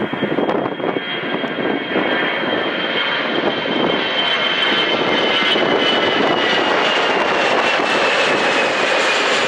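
Jet airliner's engines at takeoff power during the takeoff roll: a loud, rising rush with a high fan whine that slowly drops in pitch as the aircraft passes.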